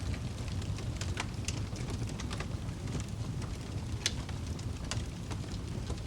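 Wood fire crackling in a fireplace: irregular sharp pops and snaps over a steady low roar of the flames, with one louder pop about four seconds in.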